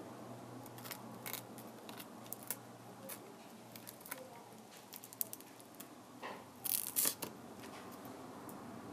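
Scattered small clicks, ticks and scrapes of tools and plastic parts being handled while a Kindle Fire tablet is worked on, with a louder cluster of clicks about seven seconds in, over a low steady hum.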